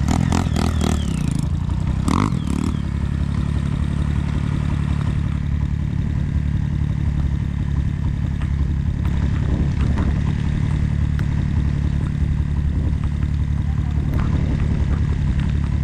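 Motorcycle engine running steadily at a low, even speed, close to idle.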